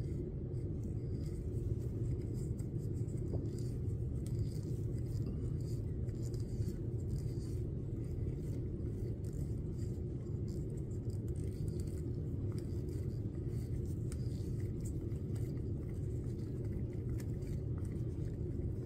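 A steady low rumble of background noise, with faint light scrapes and ticks of a stir stick working glitter into a cup of epoxy resin.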